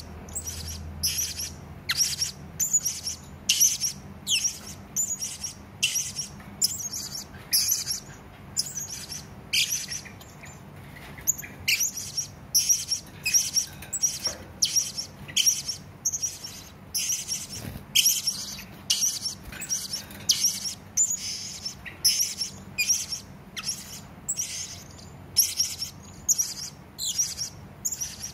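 Serindit (blue-crowned hanging parrot) giving a long series of short, sharp, high-pitched calls, about one to two a second.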